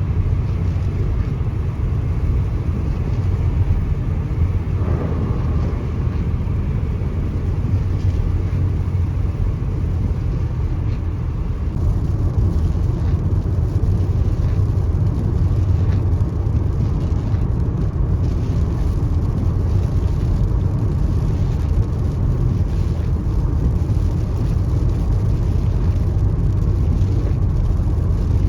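Car driving at a steady pace: continuous low road and engine rumble.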